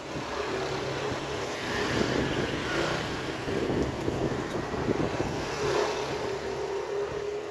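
A motor vehicle engine running steadily, a low hum with a steady higher tone, over general street noise.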